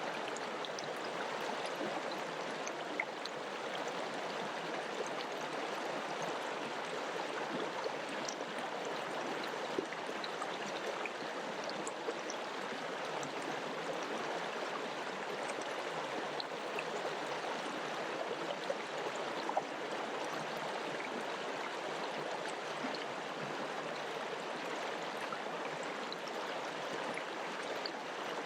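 Mountain river flowing: a steady rush of water with many small splashes and drips ticking over it.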